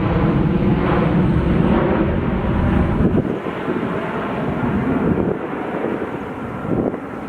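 Airliner's jet engines passing by, the low rumble dropping away about three seconds in as the noise fades.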